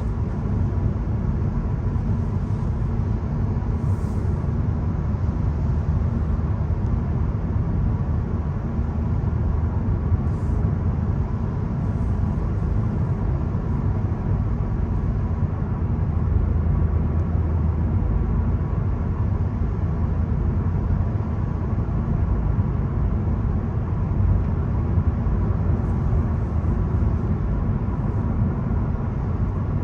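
VW Golf 1.0 TSI three-cylinder turbo petrol engine and tyres on a rain-wet road while driving: a steady low rumble with no marked revving.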